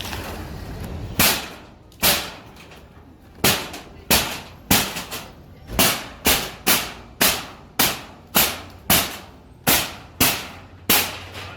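Sharp hammer blows struck over and over in demolition work, about sixteen hard cracks with a short ring after each, coming roughly one to two a second and quickening in the middle.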